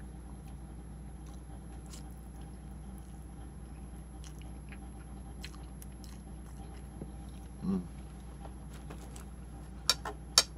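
A person chewing a mouthful of ramen noodles: faint, scattered small mouth clicks over a steady low hum. A brief voiced hum about three-quarters of the way through, and two sharp clicks near the end.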